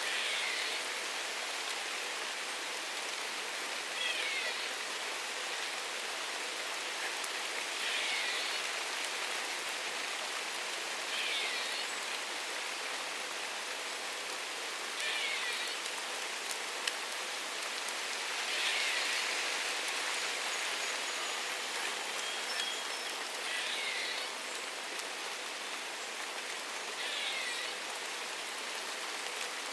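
Steady rain falling, with a bird giving a short downward-sliding call about every four seconds, eight times in all.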